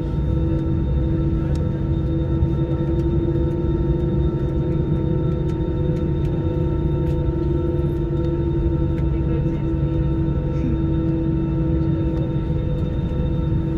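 Airbus A320 cabin noise with the engines running: a steady low rumble with several steady whining tones over it, unchanging throughout.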